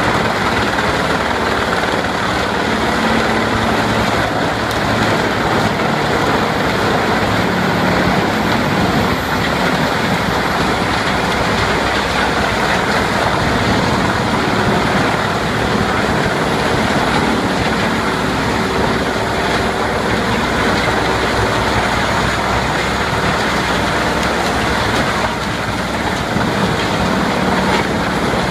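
Heavy wood chipper running: a loud, steady mechanical noise with an engine drone underneath.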